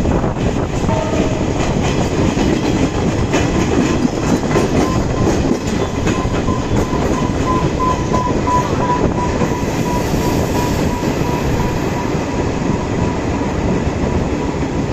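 Passenger train running along the track: a steady rumble of wheels on rails, with scattered clicks and a faint steady high whine.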